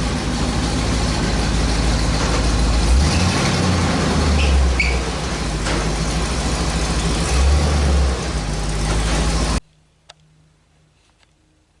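1972 Chevy truck's engine running, its low rumble swelling and easing a few times. The sound cuts off abruptly near the end, leaving only faint background.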